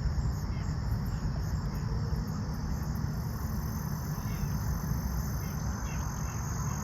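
Insects trilling steadily on one high note over a low, even rumble, with a few faint short chirps.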